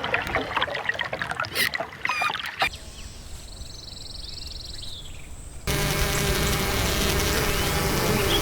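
Water sounds spliced from short clips: trickling and splashing, changing abruptly twice, with a thin whistling tone in the quieter middle stretch.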